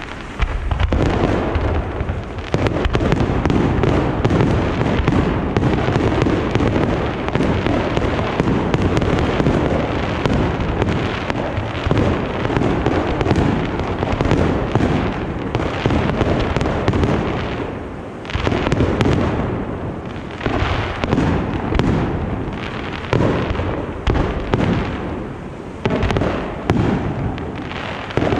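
Aerial fireworks display: a dense, continuous barrage of shell bursts with overlapping bangs, breaking up about two-thirds of the way through into separate bursts roughly a second apart.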